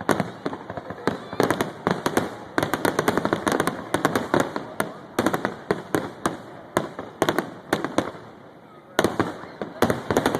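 Fireworks grand finale: aerial shells bursting in rapid volleys of sharp bangs, thinning out for a moment about three-quarters of the way through before another dense volley near the end.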